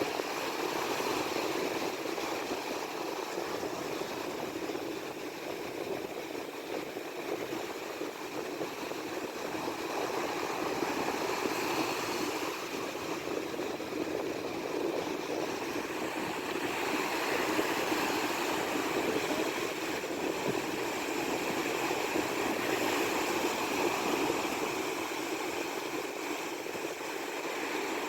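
Steady rush of wind and breaking waves around a sailboat in heavy weather, swelling and easing slowly.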